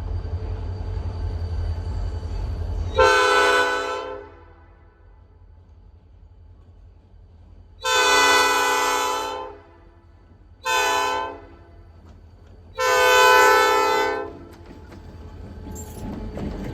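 Diesel locomotive's multi-chime air horn sounding the grade-crossing signal: two long blasts, one short and one long. There is a low engine rumble before the first blast, and wheel clatter starts near the end.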